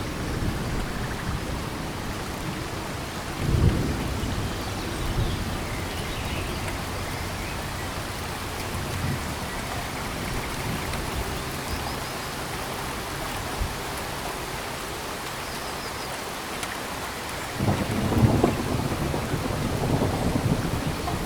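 Steady rain falling on tropical forest, with thunder: a short low rumble about three seconds in and a longer, louder roll of thunder building near the end.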